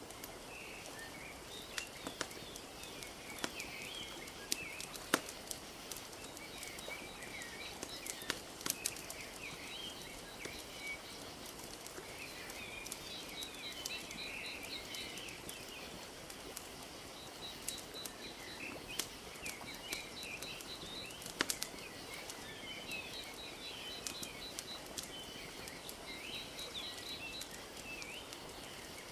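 Wood fire crackling with sharp irregular pops, over a soft steady wash of lapping lake water, while small birds chirp and twitter throughout, with repeated quick trills.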